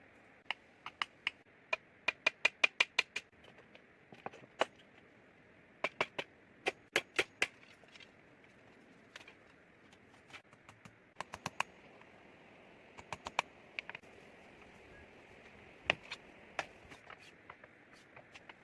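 Sharp clicks and taps, some single and some in quick runs of about four or five a second, over a steady faint hiss.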